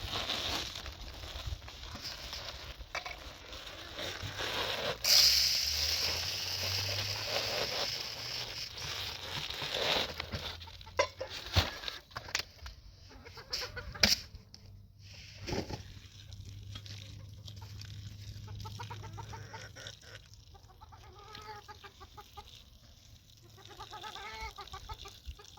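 Chickens clucking, with a stretch of hissing noise a few seconds in and several sharp knocks after it.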